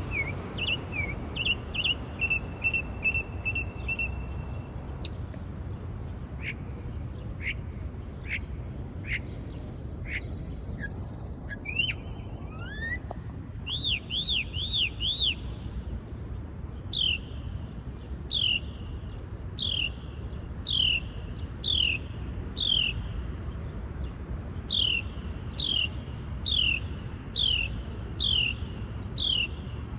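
A songbird calling in changing phrases. It opens with a quick run of short notes, then gives single spaced chirps, a rising whistle and a fast trill. Through the second half it settles into a steady string of sharp downward-sliding chirps, about one a second.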